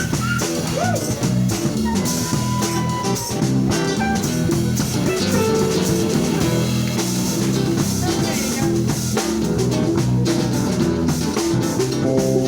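A band playing an instrumental passage: a drum kit with rimshots keeping a busy beat under guitar and electric bass.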